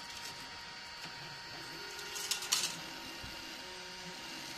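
Small desktop 3D printer's cooling fan and electronics running steadily while the nozzle heats up, a faint whine over a hiss. A brief rattle of clicks comes about two and a half seconds in.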